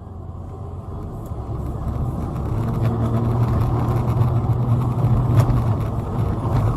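A car driving: steady engine hum and road noise, fading in and growing louder over the first few seconds, then holding steady.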